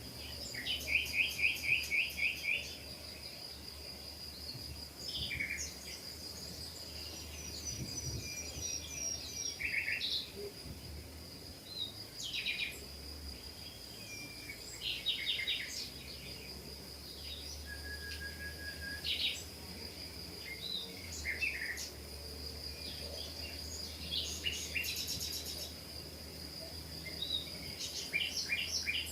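Small birds chirping and trilling in many short calls throughout, over a steady high thin tone and a faint low hum.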